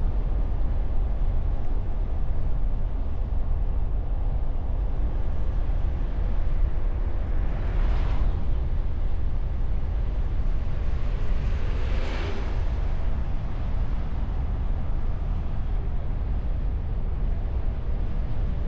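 Steady low wind and road rumble of a car on the move, picked up by a camera mounted on the bonnet behind a wind muff. Two passing vehicles swish by briefly, about eight and twelve seconds in.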